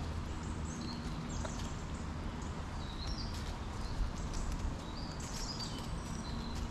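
Small birds chirping: short high calls repeating every second or so, over a steady low rumble and scattered light ticks.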